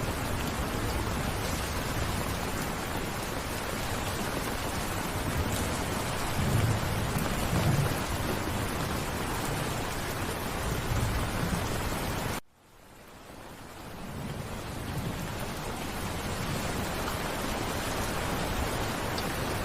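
Steady rain with deep rumbles of thunder rolling a few times around the middle. About twelve seconds in, the rain cuts out abruptly, then fades back in over a couple of seconds, like the seam of a looped recording.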